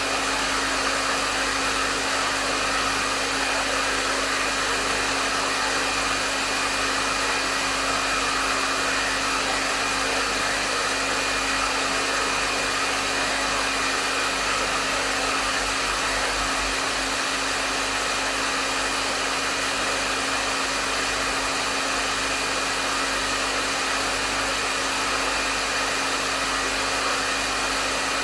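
Hair dryer running steadily at medium setting: an even rush of blown air over a constant motor hum with a faint high whine, unchanging throughout.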